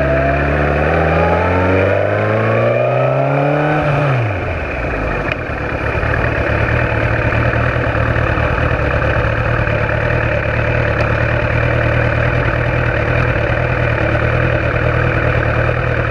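Superbike racing motorcycle engine accelerating, its pitch rising for about four seconds, then the revs dropping sharply as the throttle closes. It then runs steadily at low revs.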